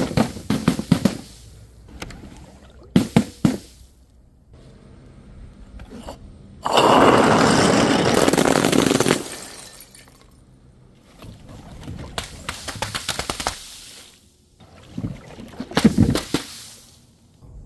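Glass bottles and jars breaking in a series of sharp smashes, each followed by shards clattering and skittering. Midway, a loud rush of liquid gushes out for about two and a half seconds.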